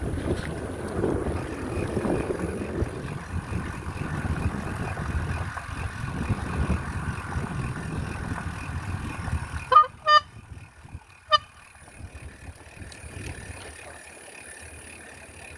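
Wind rumbling on the microphone, then three short horn toots about ten seconds in.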